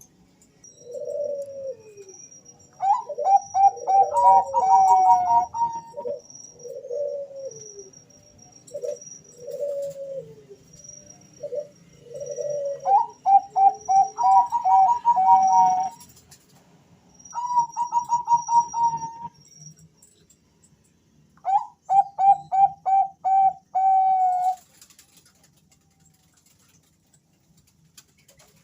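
Two male zebra doves (Bangkok-type perkutut) cooing back and forth. Quick runs of rapid, stuttering coos alternate with slower coos that fall in pitch, with a faint high chirping behind them. The calling stops a few seconds before the end.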